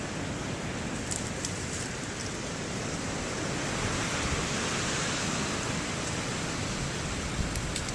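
Strong wind rushing and buffeting the microphone in a snowstorm, a steady noisy rush with low rumbling gusts that swells near the middle.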